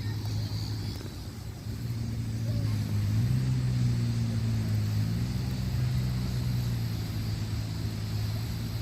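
An engine running with a steady low hum that grows louder about two seconds in and again at about three seconds, then holds.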